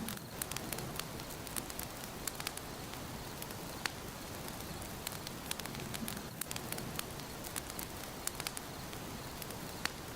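Wood fire burning in a fireplace, crackling: a steady soft hiss under frequent sharp, irregular pops and snaps of a few a second.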